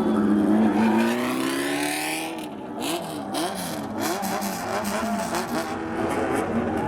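Engine of a modified old Japanese kaidō racer car being revved in quick up-and-down blips. It then settles back to a steady idle near the end.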